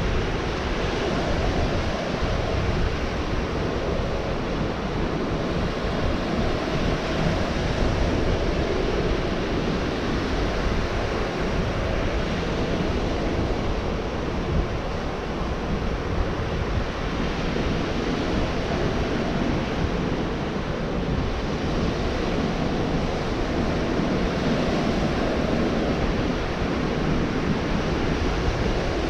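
Gulf of Mexico surf breaking and washing on the beach in a steady, continuous rush, with wind buffeting the microphone.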